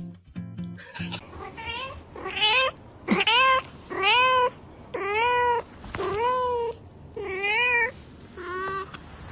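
Domestic cat meowing repeatedly, about eight drawn-out meows roughly a second apart, each rising and then falling in pitch.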